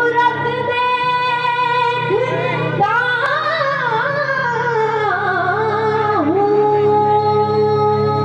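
Devotional kirtan singing: a voice holds long notes that slide up and down in pitch over a steady low accompaniment.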